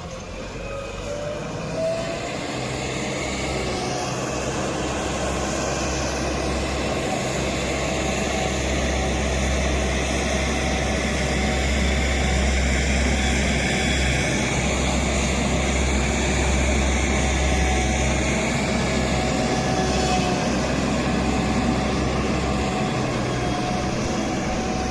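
Heavy diesel machinery engine, from a backhoe loader or tractor, running continuously with a deep rumble. It grows louder over the first several seconds, then holds steady.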